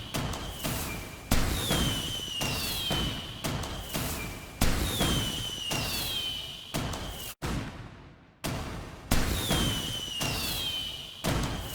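Fireworks going off in a steady run of bangs and thuds, three of them much louder. After each big bang a high whistle falls in pitch for a second or so. The sound drops out suddenly and briefly a little past seven seconds in.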